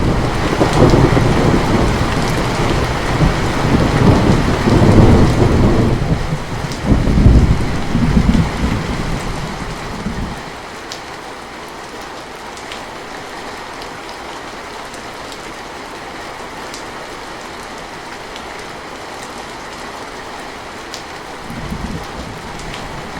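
Steady rain with a long roll of thunder at the start, rumbling in waves and dying away about ten seconds in, leaving only the even hiss of rain. A fainter rumble of thunder returns near the end.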